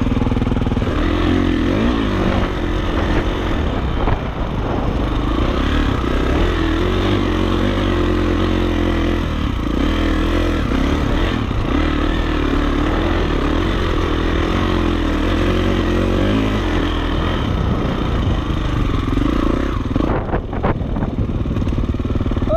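Dirt bike engine running while being ridden, its pitch wavering up and down with the throttle. A few sharp knocks come near the end.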